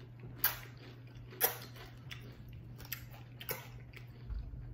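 Two people chewing birria tacos close to the microphone, with a few sharp mouth smacks, the two loudest about half a second and a second and a half in. A steady low hum runs underneath.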